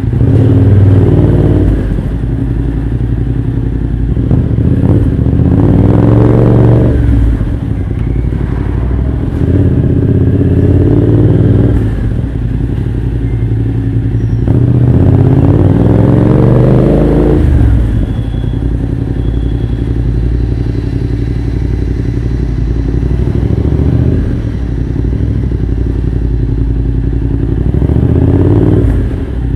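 Motorcycle with an aftermarket full exhaust system idling and being blipped several times, the pitch rising with each rev and dropping back to idle.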